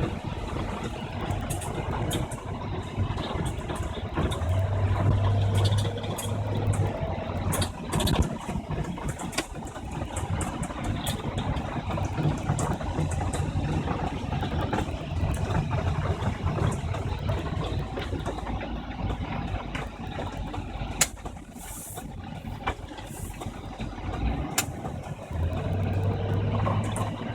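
Rebuilt engine of a 1997 Isuzu NPR truck running steadily, with scattered light clicks over the low hum.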